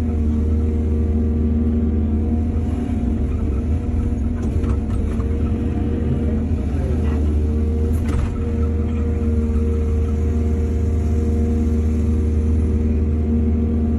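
Heavy diesel engine running steadily under a low drone, its pitch dipping briefly about halfway through, with a couple of faint knocks.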